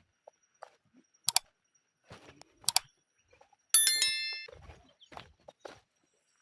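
Two sharp clicks, then a single metallic strike about four seconds in that rings with a bell-like tone and fades within a second.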